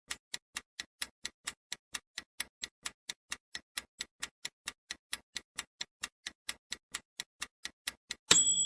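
Clock-style ticking sound effect, quick even ticks about four to five a second, counting down the time to answer a quiz question. It ends with a short bright chime near the end, marking that time is up.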